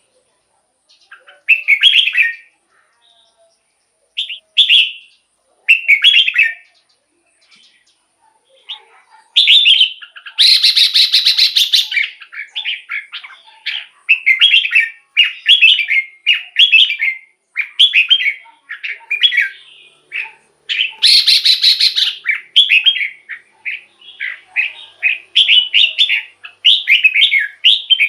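Red-whiskered bulbul singing: a few short, bubbly warbled phrases with pauses, then near-continuous song from about a third of the way in. The song is twice broken by a loud, harsh, buzzy rattle.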